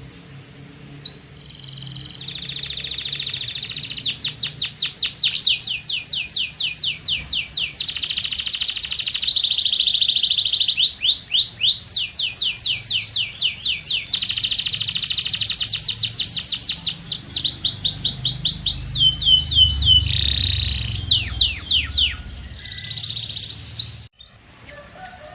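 Domestic canary singing a long song of fast trills: phrases of rapidly repeated sweeping notes alternate with steady rattling rolls. The song cuts off suddenly near the end.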